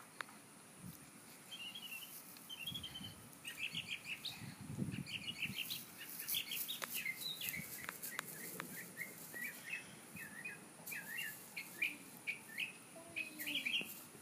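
Small birds chirping, a rapid run of short high chirps that grows busier after the first few seconds.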